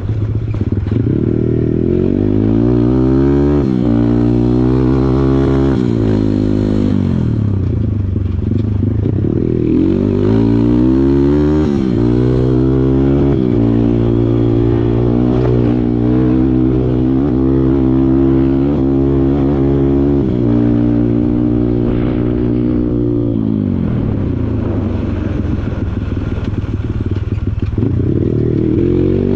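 Kawasaki KLX140 dirt bike's single-cylinder four-stroke engine revving up and down again and again as the throttle is worked on a trail. The revs hold high for several seconds in the middle, drop off to near idle about two-thirds of the way through, then climb again at the end.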